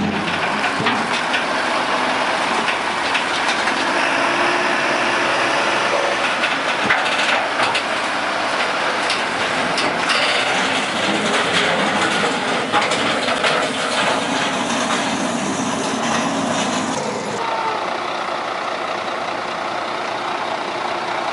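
Heavy vehicle or machinery running loudly with scattered knocks and clanks, one sharper knock about seven seconds in.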